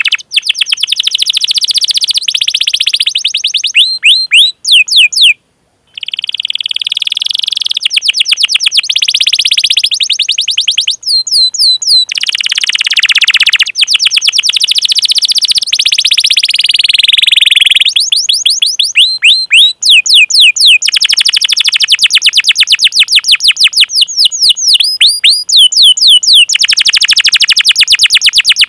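Canary singing a long, loud song of fast rolling trills and repeated 'cuit cuit' chirps, with a short break about five seconds in.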